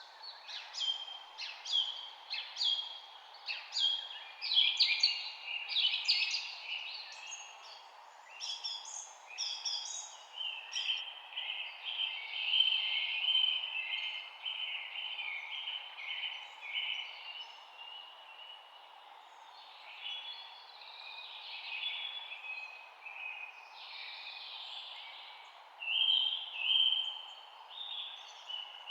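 Several songbirds chirping and singing at once, a dense run of short, quick calls with a longer warbling song around the middle, over a steady background hiss.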